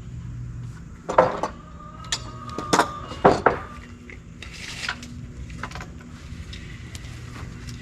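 A handful of sharp clanks and knocks, as hard objects are picked up and set down, bunched in the first half, over a low steady hum.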